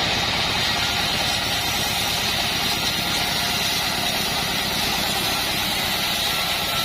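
Engine-driven band sawmill running with a steady mechanical drone and a fast low pulse.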